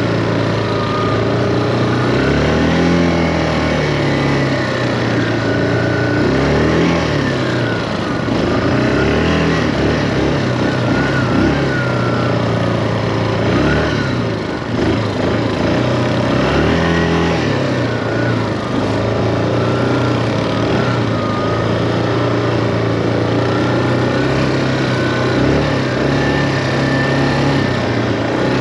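Quad bike engine running as it is ridden, its pitch rising and falling again several times as the throttle is opened and eased off.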